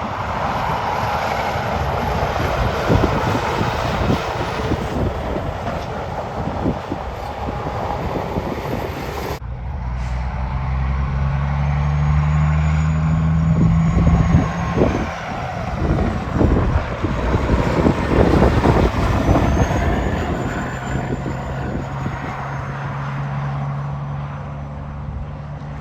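Road traffic with a truck going by. About nine seconds in, the sound cuts abruptly to a truck engine running at a steady low pitch, which dips in the middle and comes back later.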